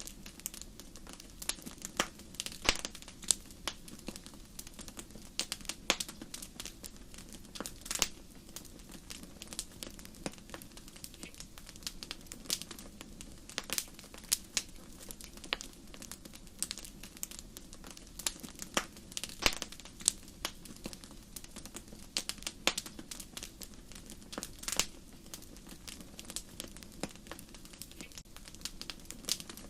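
Wood fire burning in a fireplace, crackling with frequent irregular sharp pops and snaps over a steady low hiss of the flames.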